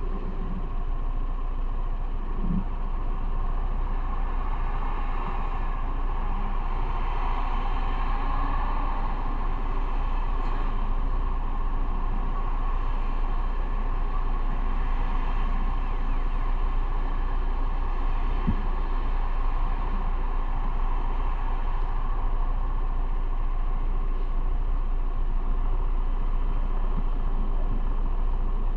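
Motorcycle engine running steadily in slow traffic, with road noise.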